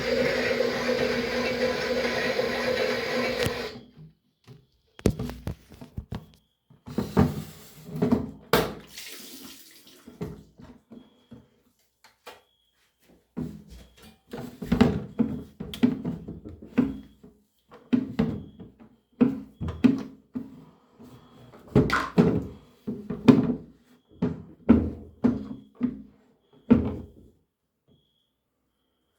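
Water running steadily for about three and a half seconds, then a long run of irregular splashes, knocks and handling noises that stop a couple of seconds before the end.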